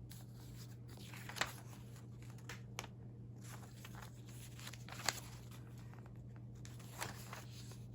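Paper pages of a recipe binder being handled: scattered soft rustles and light taps, a few seconds apart, over a steady low hum.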